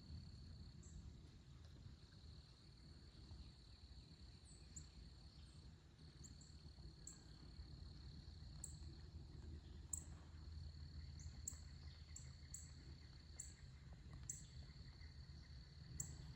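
Faint meadow ambience: a steady high-pitched insect trill that pauses now and then, with short, high, falling chirps from small birds repeating irregularly, more often in the second half, over a low steady rumble.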